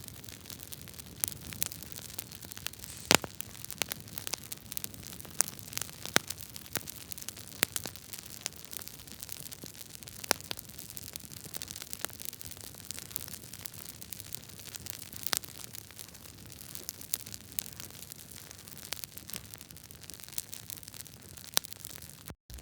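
Wood logs burning in a fireplace, crackling and popping irregularly over the steady hiss of the flames, with one louder pop about three seconds in. The sound cuts out for an instant near the end.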